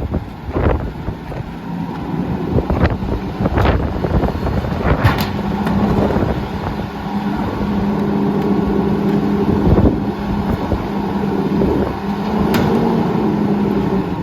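Curotto-Can garbage truck's diesel engine running with a steady hum that builds about two seconds in, with strong wind buffeting the microphone. Several sharp knocks sound in the first few seconds and one more near the end.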